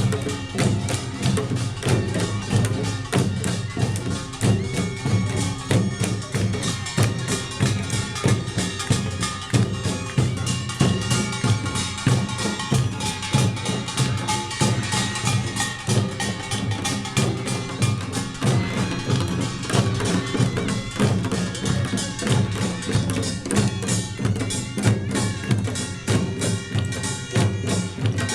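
Korean pungmul percussion band playing Jeolla Jwado farmers' music: kkwaenggwari small gongs clanging over janggu and buk drums in a fast, steady, driving rhythm.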